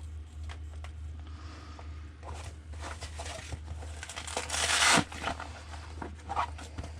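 Hands fitting a LiPo battery and its wires into an RC truck's battery bay: rustling, scattered plastic clicks, and a short loud ripping rasp about two-thirds of the way in that ends in a thump. A steady low hum runs underneath.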